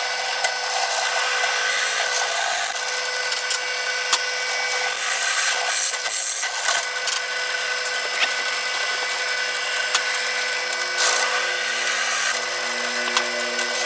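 Electric drill running steadily with a constant motor whine, boring pinholes through forged mild steel pieces.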